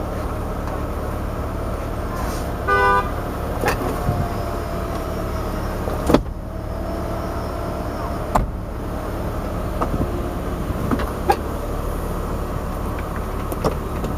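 Power soft top of a BMW 128i convertible closing: a steady motor hum with a faint whine, broken by several clicks and knocks as the roof moves and latches. A short beep sounds about three seconds in.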